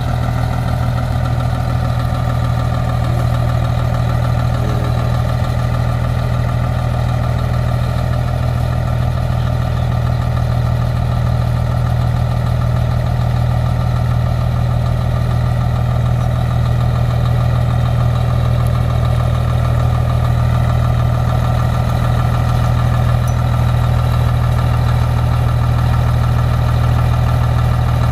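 Peterbilt 377 truck's diesel engine idling steadily with a deep, even low note.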